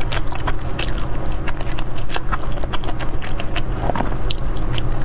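Close-miked chewing with many small, sharp wet mouth clicks, over a steady low hum.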